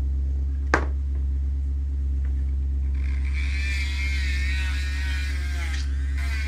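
Steady low hum throughout, with a sharp click about a second in. From about three seconds in, a wavering high whine comes for roughly three seconds as a sanding drum grinds down the coarse aluminium of a Honda transmission case.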